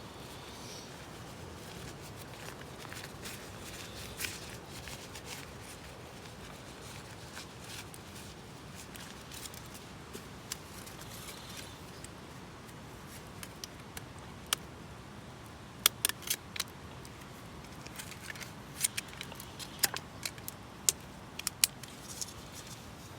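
Camping gear being handled, giving a series of sharp clicks and clinks that come thicker and louder in the second half, over a faint steady hiss.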